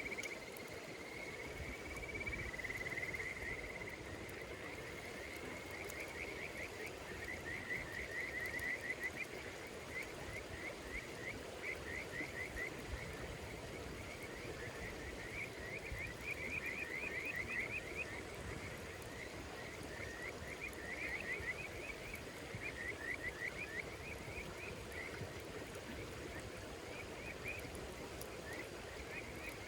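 Night insects calling in rows of rapid, repeated chirping trills, over the low crackle and hiss of a wood fire.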